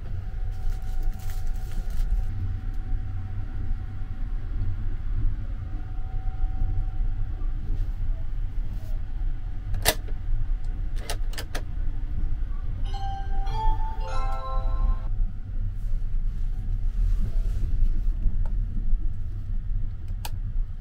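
Steady low rumble of the Sunrise Seto sleeper train running, heard from inside a single-room compartment. A few sharp clicks from the room's door lock switch come about ten seconds in, followed by a short run of pitched tones, and a wall switch clicks near the end.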